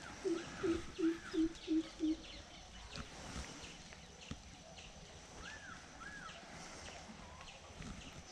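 A bird calls a run of about six short, low notes, roughly three a second. The run stops about two seconds in. A few higher arched chirps and scattered faint ticks follow over a quiet outdoor background.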